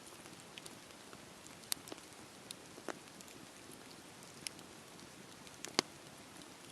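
Campfire burning with a steady soft hiss and scattered sharp crackles and pops, the loudest pop near the end.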